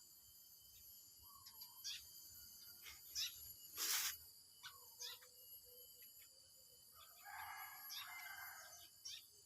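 Faint ambience of steady insect trilling with scattered short bird chirps. A brief hissing burst comes about four seconds in, and a rooster crows from about seven to nine seconds in.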